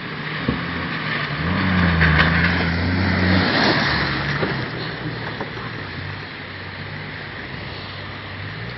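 Motocross motorcycle engine running. It swells louder about a second and a half in and drops back after about three and a half seconds.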